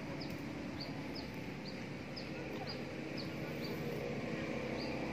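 A bird chirping a short, high, slightly falling note about twice a second, over a steady low background hum.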